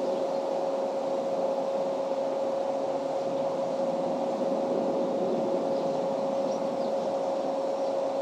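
A steady machine hum holding one constant tone, unchanging in level.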